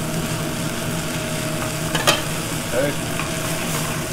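Battered chicken cutlets sizzling steadily in a hot sauté pan while being turned with metal tongs, with one sharp metal click about two seconds in. A steady hum runs underneath.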